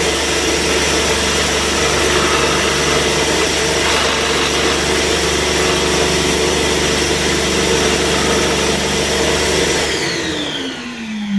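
Scroll saw running steadily as its blade cuts through hard fudge. About ten seconds in it is switched off, and the motor winds down with a falling hum.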